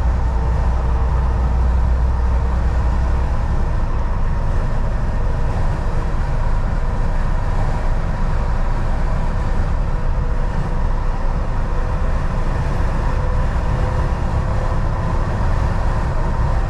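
Volvo VNL 760 semi-truck driving on the highway: a steady run of engine and road noise. A heavy low rumble drops away about three seconds in.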